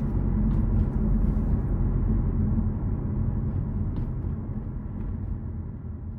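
Car engine running with a steady low rumble, slowly fading out over the last few seconds.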